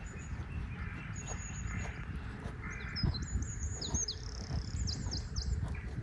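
Small birds chirping: high thin notes, a short run about a second in, then a busier stretch of chirps with several quick downward-sweeping calls in the second half, over a low steady background rumble.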